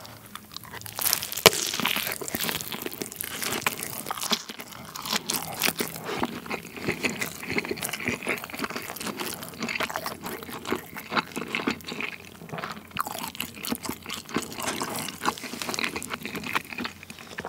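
Close-miked biting and chewing of a cheese pizza slice wrapped around a sausage. A crunchy bite comes about a second and a half in, then steady, wet chewing with crackling crust.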